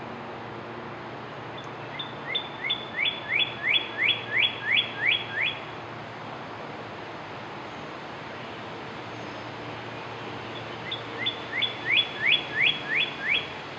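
A songbird singing two phrases, each a run of about a dozen quick rising notes at roughly four a second, over a steady low background hum.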